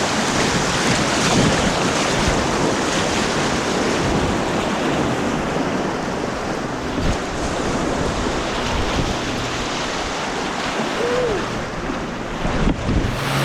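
Steady rush of white water on an artificial white-water course, with wind buffeting the action camera's microphone.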